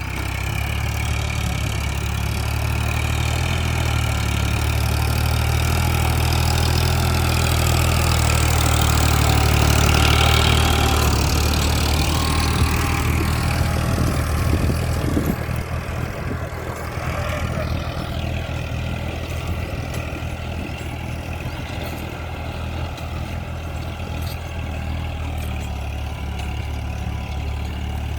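Eicher 551 tractor's water-cooled diesel engine running steadily while pulling a three-bottom mouldboard plough. It grows louder through the first third, then eases back about halfway and runs evenly.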